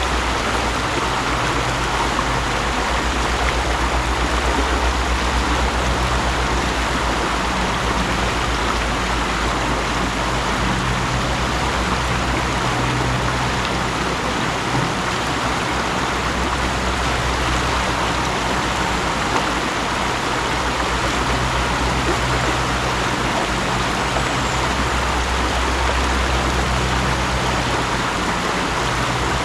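Mountain stream flowing steadily, with a low rumble underneath that swells and fades.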